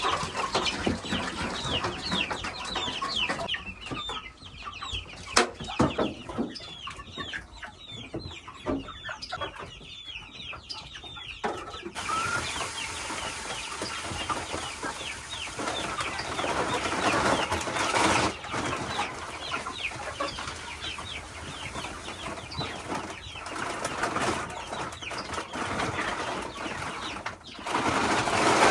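A flock of young chickens cheeping and clucking, with many short falling calls overlapping. The background changes abruptly about twelve seconds in, as at an edit.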